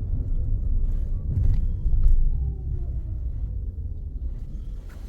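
Low rumble of a car's engine and tyres heard from inside the cabin while driving, growing quieter near the end.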